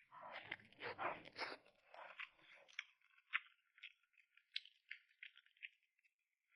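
Close-up eating sounds: crunchy bites and chewing, denser in the first couple of seconds, then a scatter of short crisp crackles and smacks.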